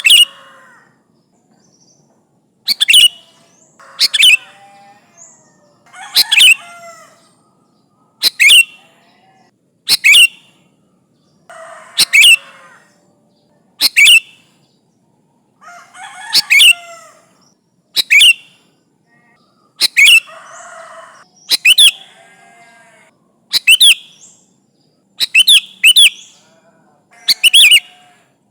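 Sooty-headed bulbul (kutilang) giving short, sharp, loud call phrases over and over, about one every one and a half to two seconds, with softer, lower chatter between some of them. It is a territorial call of the kind used to lure rival birds.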